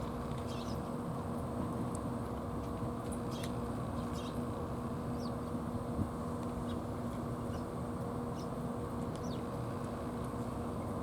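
A steady low rumble with a constant hum, like a running engine, and faint, short high chirps of small birds scattered over it.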